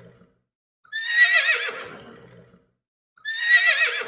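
A horse whinnying: the same quavering neigh repeats, a full one about a second in and another starting near the end, each trailing off after its start.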